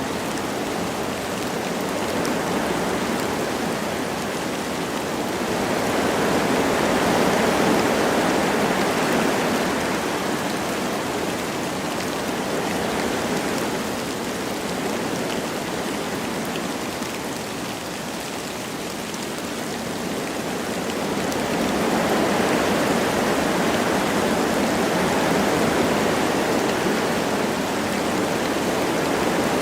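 Wind blowing through forest trees with light rain falling: a steady rushing hiss that swells slowly in two long gusts, once about a quarter of the way in and again past the two-thirds mark.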